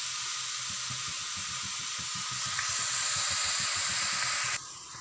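Potato, cauliflower and capsicum frying in a steel kadhai over a high gas flame: a steady sizzling hiss that drops off suddenly about four and a half seconds in.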